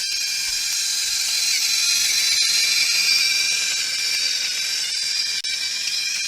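Battery-powered electric motor of a TrackMaster toy engine running along plastic track, a steady high-pitched whine with a hiss over it. It dips briefly about five seconds in.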